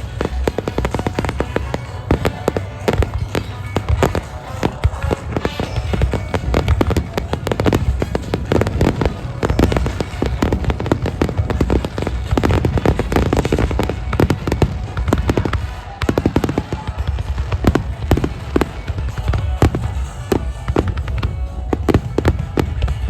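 A dense, rapid barrage of aerial fireworks: many bangs and crackles in quick, irregular succession, with music playing underneath.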